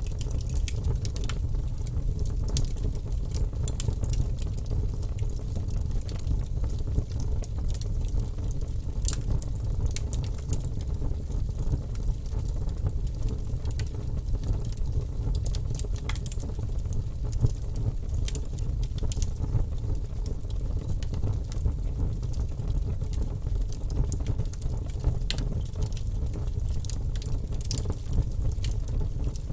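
Wood fire burning in a fireplace: a steady low rumble with frequent scattered crackles and pops.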